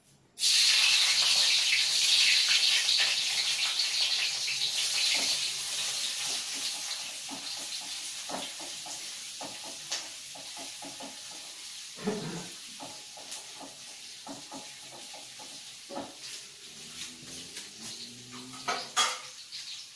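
Sliced shallots dropped into hot oil in a wok, frying with a sizzle that starts suddenly about half a second in and slowly dies down, with occasional knocks of a utensil against the pan.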